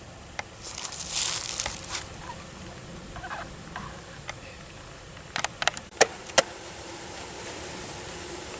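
Bee shipping crate being shaken and knocked to get the last bees out: a rustling burst about a second in, then several sharp knocks around six seconds, over a faint steady buzz of bees.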